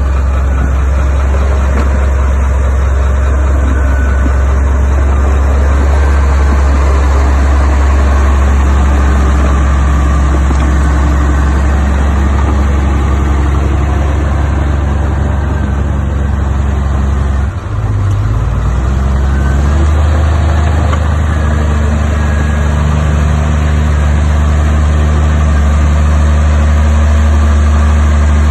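Heavy diesel engine of earthmoving machinery running loud and steady, with a deep low hum. A little past halfway it dips briefly and the pitch shifts, then settles back to the steady run.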